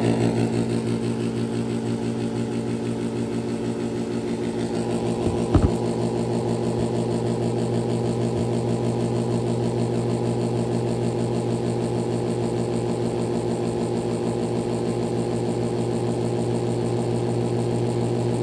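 2012 Pelonis Elite heat pump running with a steady, slightly pulsing hum, during a defrost cycle that the owner considers a malfunction, while the valve he expects has not yet come on. A single sharp click about five and a half seconds in.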